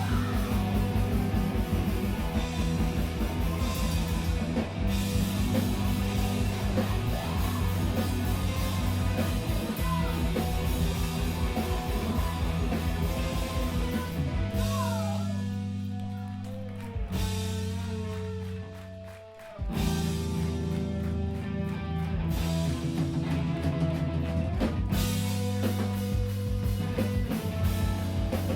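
A screamo band playing live: distorted electric guitars, bass and drum kit at full volume. About halfway through the drums drop out and held guitar chords ring and fade almost to nothing, then the full band crashes back in.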